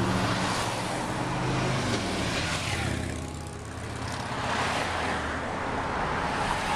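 A car driving, with an engine hum and a steady rush of road and wind noise. It dips about three seconds in, then rises again.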